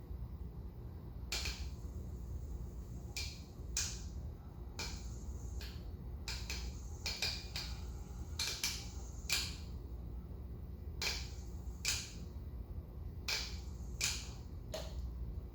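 Cast 60-inch Dayton/Leading Edge ceiling fan running with a steady low hum, broken by irregular sharp clicks and crackles about once or twice a second. These are weird, wacky noises from a failed speed-control capacitor.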